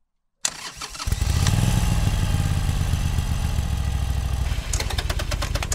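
Motorcycle engine starting about half a second in and running steadily, turning into a fast run of evenly spaced ticks near the end before it cuts off suddenly.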